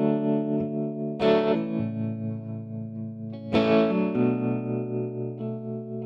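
Instrumental passage of a rock song: distorted electric guitar with effects playing sustained chords, struck about a second in and again midway, each left to ring out.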